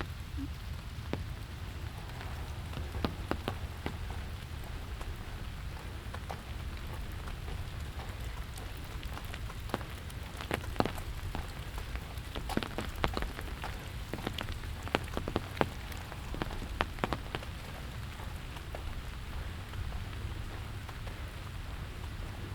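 Steady rain falling, with a low rumble underneath and scattered sharp, close drops striking a surface, thickest around the middle.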